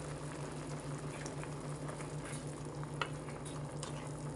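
Chicken menudo cooking in a pan with tomato sauce just added, giving a steady sizzle with a few faint clicks over a low hum.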